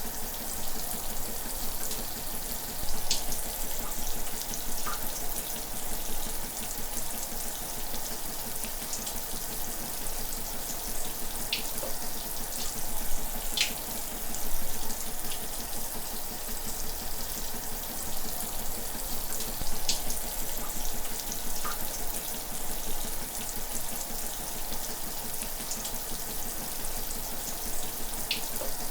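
Shower running steadily, a dense hiss of falling water with scattered drips and splashes standing out now and then.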